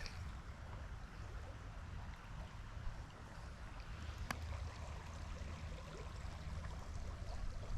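River water running steadily, with a low rumble underneath and a single faint click about four seconds in.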